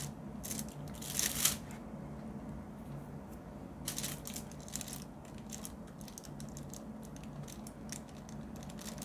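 Scattered light clicks and taps of a diamond painting pen picking up resin drills and pressing them onto the sticky canvas, with a couple of louder rustles about a second in and again around four seconds in, over a faint steady low hum.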